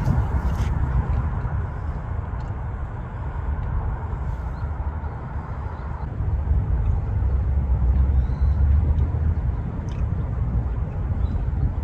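Wind buffeting the phone's microphone: a steady low rumble that grows stronger a little past the middle. A few faint, short high calls come through now and then.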